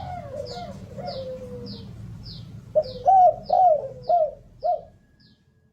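Derkuku dove cooing in a series of low, repeated coos, which grow louder and quicker about three seconds in. Underneath runs a short high chirp repeated about twice a second. Both fade out near the end.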